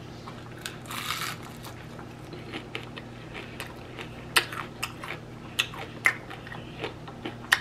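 Bite into a piece of fried catfish and chewing, a longer crunch about a second in, then many short sharp crackles. The crust is crunchy, fried hard.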